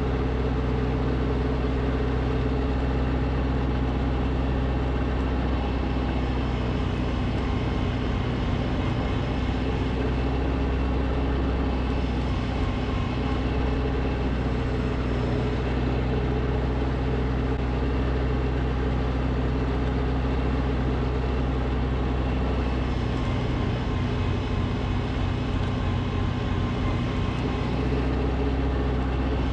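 Snowblower engine running steadily under load at a constant pitch, with a slight flutter in its low note from about three-quarters of the way through.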